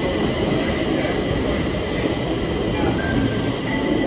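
Stockholm Metro train running, a loud steady rumble of wheels on track.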